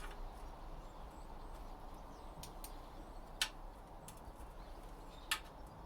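A few short, sharp metallic clicks, spaced out, from a 10mm socket tool working the oil pan bolts on a CA18ET engine; the two loudest come about three and a half and five seconds in.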